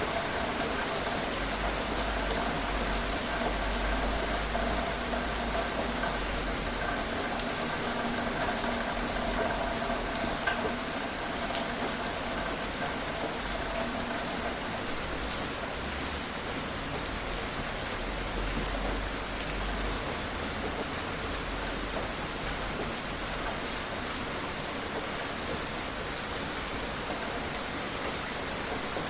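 Steady, gentle rain falling, an even hiss with fine patter of individual drops. A faint steady hum sits under it and fades out about halfway through.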